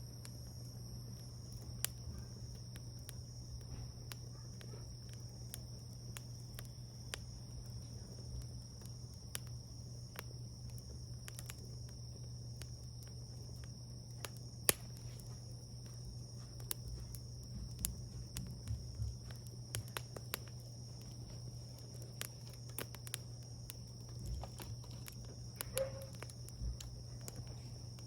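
Wood fire crackling, with scattered sharp pops at irregular moments, the loudest about halfway through. A low steady hum runs underneath.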